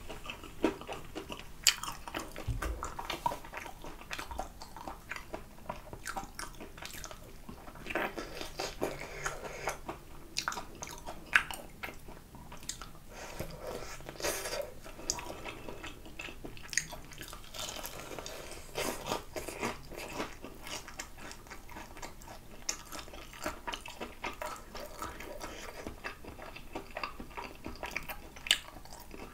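Close-up eating sounds of a person biting and chewing a crispy fried chicken drumstick: wet chewing with crunches of the fried coating and many small sharp clicks, steady throughout with a few louder bites.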